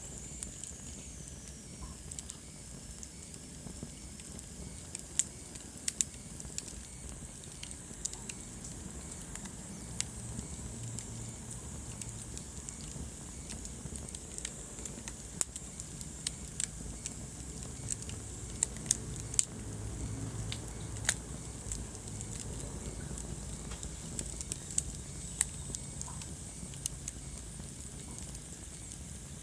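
Wood fire burning in a fireplace: a low steady rumble of flames with irregular sharp crackles and pops throughout, a few louder pops past the middle.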